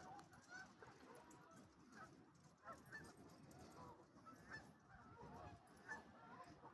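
Faint, scattered honking and quacking of a flock of waterfowl on a lake: many short calls overlapping.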